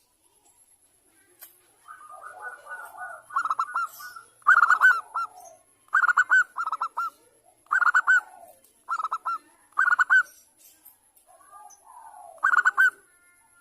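Zebra dove (perkutut) singing: a rolling trill, then a run of quick, stuttering coo phrases, a pause, and one more phrase near the end.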